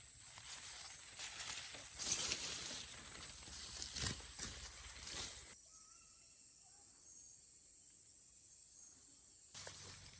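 Rustling and crackling through dry vegetation with a few sharp snaps, over a steady high-pitched hiss. Partway through it gives way to a much quieter stretch of about four seconds before the rustling returns near the end.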